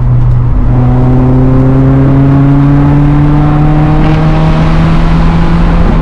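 Nissan 240SX's single-cam four-cylinder engine pulling hard through a gear, its note climbing steadily for about five seconds.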